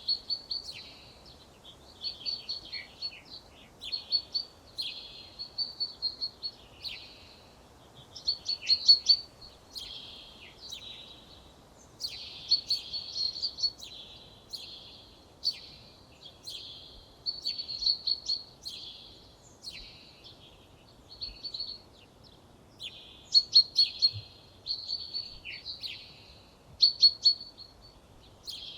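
A songbird singing in short, high phrases of rapid chirps, trills and quick downward-sliding notes. The phrases follow one another every second or two with brief pauses between.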